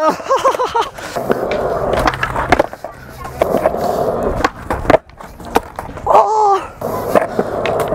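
Skateboard wheels rolling on concrete, with sharp clacks of the board being popped, flipped and landed during a trick attempt.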